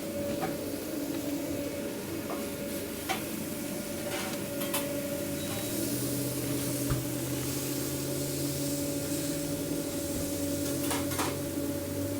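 Food sizzling on a hot cooking surface, with a few sharp clinks of metal utensils against the pan, over a steady machine hum of the kitchen equipment.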